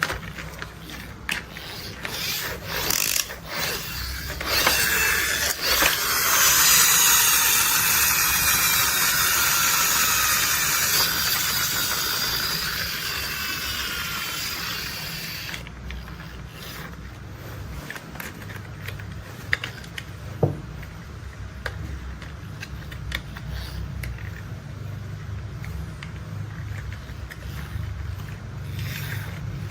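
Plastic toy construction vehicles being handled, with clicking and ratcheting of their mechanisms. Their loudest sound is a hissing rush that lasts about ten seconds and cuts off suddenly, followed by scattered lighter clicks.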